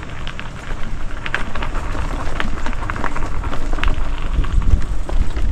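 Mountain bike rolling along a dirt trail: tyres crackling over the ground with scattered ticks and rattles, under a low wind rumble on the microphone that grows louder toward the end.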